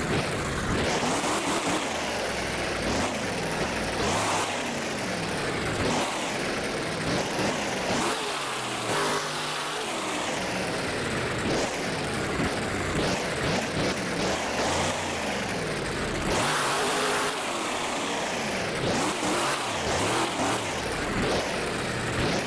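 Monster truck engine revving hard over and over, its pitch climbing and dropping every second or two.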